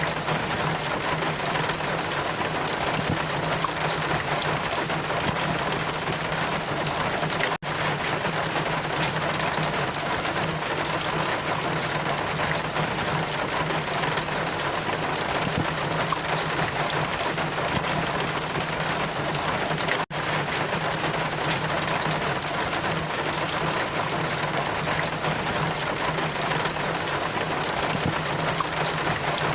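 Steady rain falling, a dense continuous hiss of drops with a low steady hum beneath. The sound cuts out very briefly twice, about 7 and a half seconds in and again about 20 seconds in.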